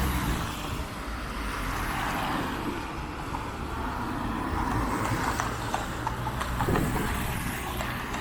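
Road traffic: cars passing with a steady noise of engines and tyres.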